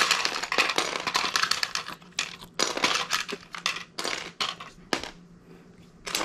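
Loose plastic Lego pieces clattering as hands rummage through a pile of bricks, a quick run of small clicks and rattles that dies down about five seconds in.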